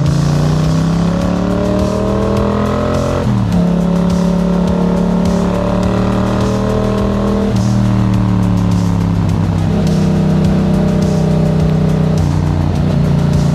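Yamaha MT-07 parallel-twin engine through an aftermarket Black Widow exhaust, accelerating hard. The engine note climbs, drops sharply at an upshift about three seconds in, climbs again to a second upshift past the halfway point, then settles to a steady cruise.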